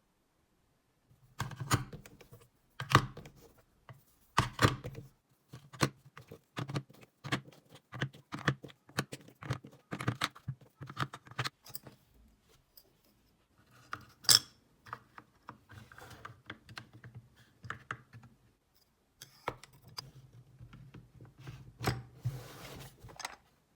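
Irregular clicks and knocks of small hard parts being handled, roughly one or two a second, with a short scraping rustle near the end.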